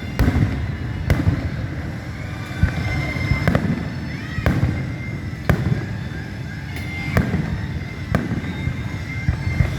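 Aerial fireworks bursting, a sharp bang about once a second over a continuous low rumble.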